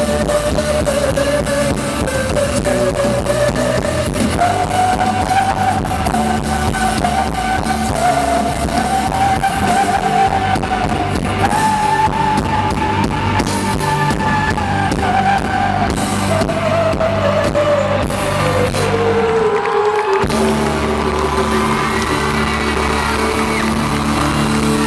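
Live rock band playing a pop song with guitar, bass and drums under a long held, bending melody line that slides down in pitch. About three-quarters of the way through, the bass and drums drop out for a moment and then come back in.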